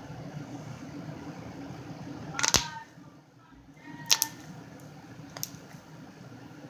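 Three sharp clicks: the loudest about two and a half seconds in, another about four seconds in and a fainter one near five and a half seconds, over a steady low hum that drops out briefly after the first click.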